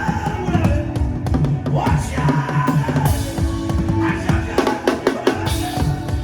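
Worship music driven by fast drum-kit playing, with many quick strikes over held low notes and a melody line above.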